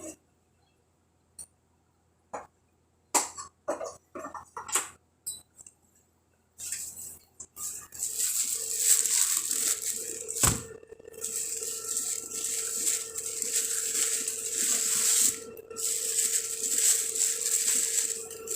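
Kitchen handling sounds: a few scattered clicks and knocks, then a loud steady hiss with a low hum under it, broken by a sharp knock about ten seconds in and dropping out briefly a few seconds before the end, as water is readied for coffee.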